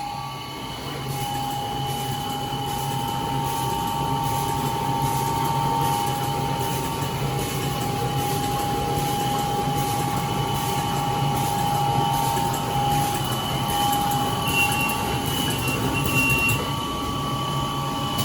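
Plastic bag-making machine running on LDPE film at 80 cycles a minute: a steady whine with several held tones over a low hum, and faint regular clicks from each cycle.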